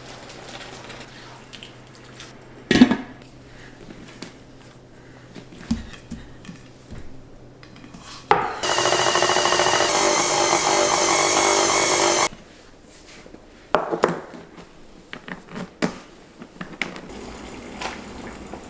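Kitchen work sounds: scattered knocks and clatter of dishes and utensils with one sharp knock about three seconds in, then a small electric kitchen appliance motor running loudly and steadily for about four seconds midway before cutting off.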